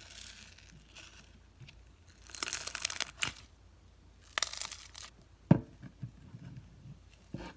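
Paper or plastic being handled and crinkled in two short bursts, followed by a sharp tap and a softer click near the end.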